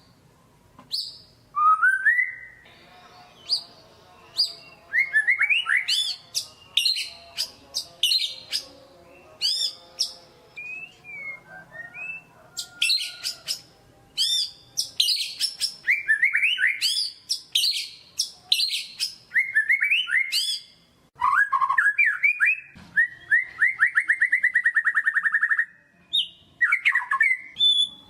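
White-rumped shama (murai batu) singing a varied song of loud whistles, sharp high notes and fast trills. A few seconds before the end it holds one steady, rapid trill for several seconds.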